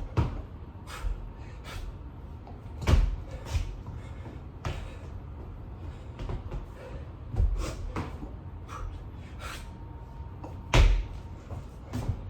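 Body landing on the floor during burpees: a heavy thump every three to four seconds as the hands and feet come down, with lighter knocks and shuffles in between.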